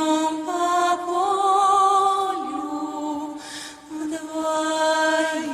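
Women's voices singing long, drawn-out notes with vibrato in two-part harmony. There is a brief dip in the sound about three and a half seconds in.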